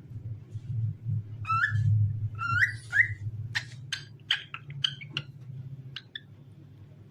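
Cockatiel whistling: a few rising whistled notes in the first three seconds, then a quick run of short, sharp chirps that stops about six seconds in. A low steady hum runs underneath.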